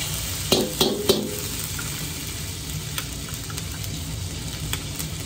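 Grated garlic, ginger and doubanjiang sizzling in a little oil in a carbon-steel wok. In the first second a steel ladle clinks against the wok three times, then the sizzle goes on steadily.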